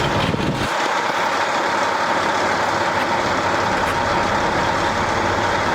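Steady mechanical running noise with a constant high hum, like a motor or engine running nearby. Its deep rumble drops away less than a second in and then slowly returns.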